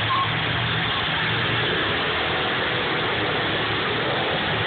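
Demolition derby cars' engines running at idle: a steady low drone under a constant noisy din.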